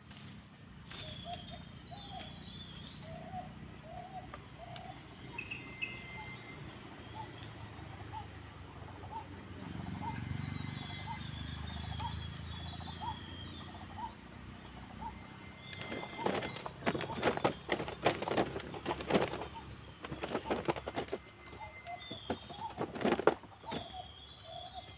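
Birds calling: one bird repeats a short note about twice a second, slowly climbing in pitch through the first half, with thin high chirps over it. From about two-thirds of the way through come loud clusters of rustling and knocking noise, with a last sharp burst near the end.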